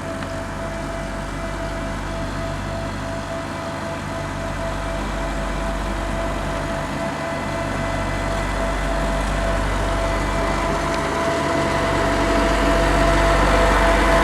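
Diesel engine of a road roller running steadily, a low drone with a held whine on top, growing steadily louder as the machine comes closer.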